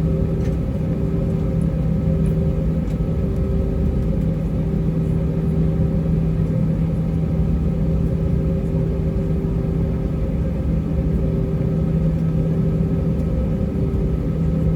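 Airbus A320's IAE V2500 turbofan engines running at taxi power, heard inside the cabin: a steady hum with several held tones over a low rumble.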